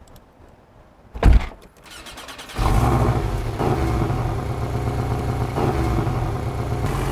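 Porsche 718 Boxster's engine and exhaust starting up: after a near-quiet second, a sudden loud blast, then from about two and a half seconds in the engine running steadily with a low even drone.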